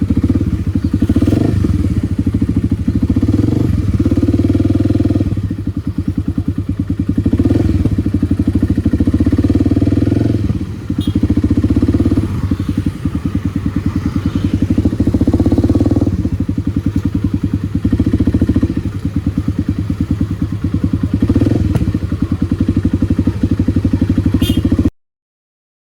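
Kawasaki D-Tracker 250's single-cylinder four-stroke engine, fitted with an aftermarket White Brothers exhaust, running under way, rising and falling with the throttle through brief dips between pulls. The sound cuts off abruptly near the end.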